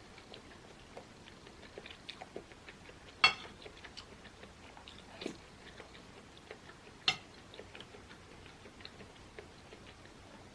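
Close-miked chewing, with many small, moist mouth clicks. Sharp clicks about three, five and seven seconds in, the first being the loudest.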